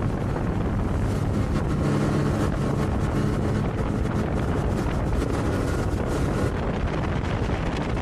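Motorboat engine running steadily while the boat tows a tube, with wind buffeting the microphone.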